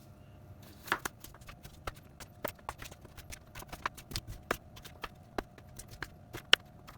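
Knife chopping raw potatoes into chunks on a chopping board: a run of irregular sharp knocks, several a second, the loudest near the end.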